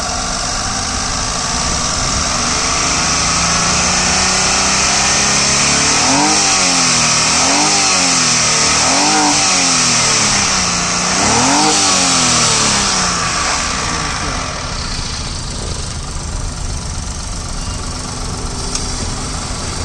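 Hyundai Eon's three-cylinder petrol engine running, revved up and let fall back four times in quick succession near the middle, then settling to a steady idle that is quieter.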